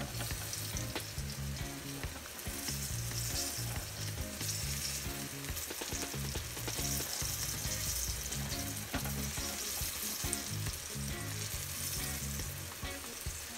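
Flour-dredged eggplant slices sizzling steadily in shallow oil in a nonstick frying pan, with a few light clicks of a fork against the pan as the slices are moved and turned.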